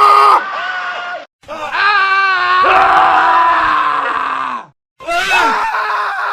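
Several men's screams, one after another, each cut hard against the next, with two brief silent gaps. A long scream about halfway through falls in pitch at its end.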